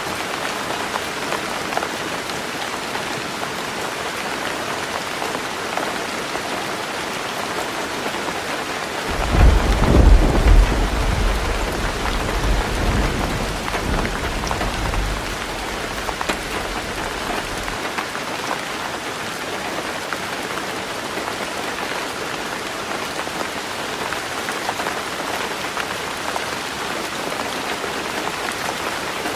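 Heavy rain falling steadily on a roof. About nine seconds in a roll of thunder breaks in suddenly, is loudest within a second or so, and rumbles away over the next several seconds.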